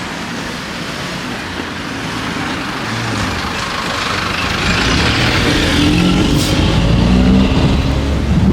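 Street traffic heard from a moving bicycle: a motor vehicle passes close, its noise and low engine note building through the second half.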